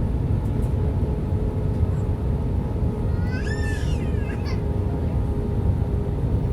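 Cabin noise of an Airbus A320 on approach: a loud steady rumble of engines and airflow with a constant hum from the IAE V2527 engines. About three and a half seconds in, a short high-pitched cry rises and falls, followed by a briefer squeak.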